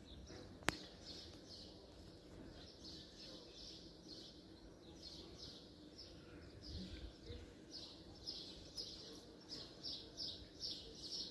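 Small birds chirping over and over in short, high notes that come thicker toward the end, with one sharp click less than a second in.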